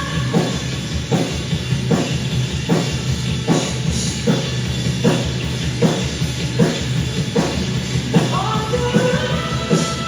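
Rock band playing an instrumental passage, the drum kit keeping a steady beat of about one hit every 0.8 seconds. A held melody line that steps upward comes in near the end.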